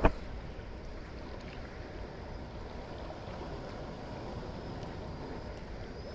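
Steady noise of sea water moving around a kayak, with a low wind rumble on the microphone.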